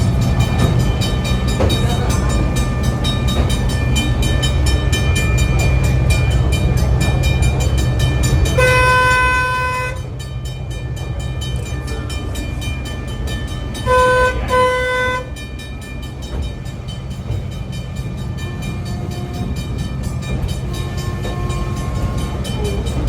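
Train running with a steady low rumble; its horn sounds one long blast about nine seconds in, then two short blasts around fourteen seconds.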